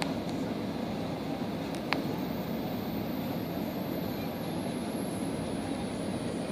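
Steady low rumble of a car's engine running, heard from inside the cabin, with a single click about two seconds in and a faint high whine slowly falling in pitch.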